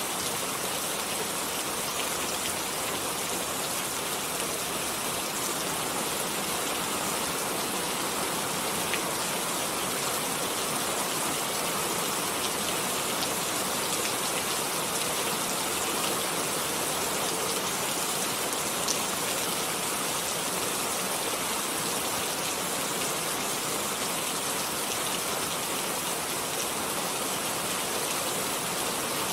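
Steady rain falling and pattering on a surface, with an occasional single louder drop.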